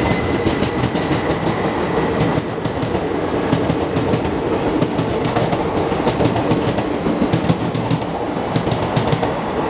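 Passenger train coaches rolling past close by: a loud steady running noise, with the wheels clacking again and again over the rail joints.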